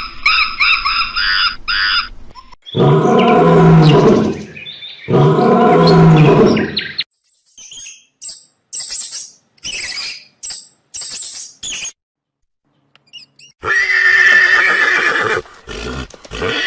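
A run of different animal calls, one clip after another: two long, loud calls about three and five seconds in, a string of short high chirps in the middle, and another loud call near the end.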